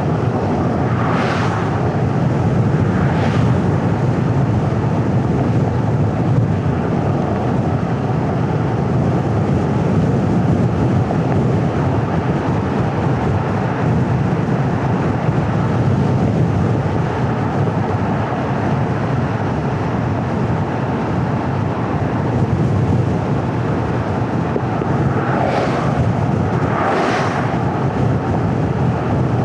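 Car driving on a paved road: steady road and tyre noise with a low engine hum. Brief rushing swells come about a second in, again at about three seconds, and twice near the end.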